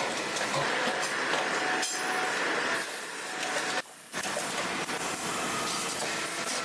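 Steady factory-floor machinery noise in a leaf-spring plant, with a few metallic knocks. It cuts out briefly about four seconds in, then resumes.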